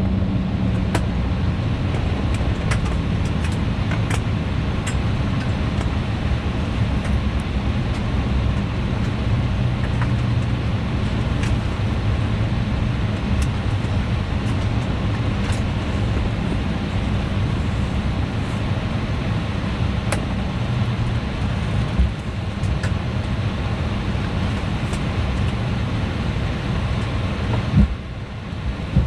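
Steady cabin noise inside an Embraer E175 at the gate, a loud even rush of air with a low hum, broken by scattered light clicks. There is a single thump a little past two-thirds through, and a sharp knock near the end, after which the noise drops somewhat.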